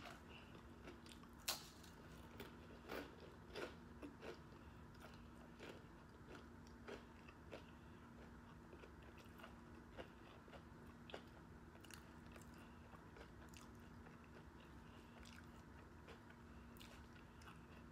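Close-up crunching and chewing of a hard-shell taco topped with Takis rolled tortilla chips: crisp crunches come thick in the first several seconds, then thin out to occasional ones as the bite is chewed down. A faint steady hum runs underneath.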